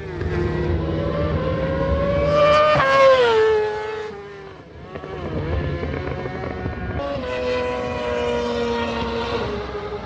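High-displacement racing motorcycle engines revving in warm-up: the pitch climbs to a peak about three seconds in and drops away, then rises again about seven seconds in and slowly falls.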